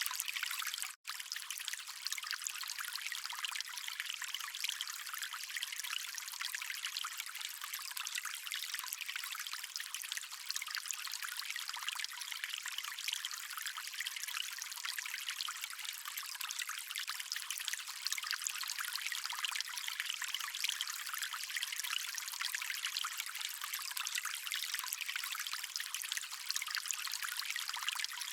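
Stream water flowing steadily over rocks, an even, high-pitched splashing and trickling with no low rumble. It cuts out for an instant about a second in.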